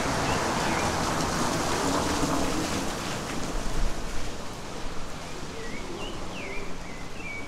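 Steady rain falling, heavier for the first few seconds and then easing a little. Over the rain a bird gives short, curving chirps near the start and again several times near the end.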